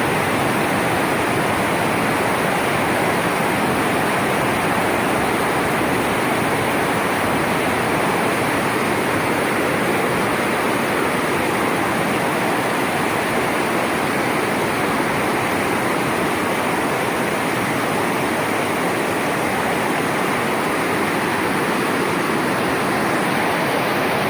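Floodwater rushing steadily in a loud, unbroken torrent.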